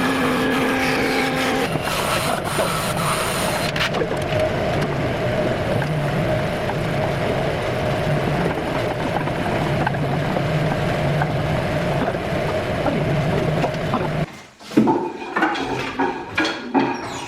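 A woodworking power machine running steadily with a constant hum, switching off suddenly about 14 seconds in. Scattered knocks and clicks of wood being handled follow.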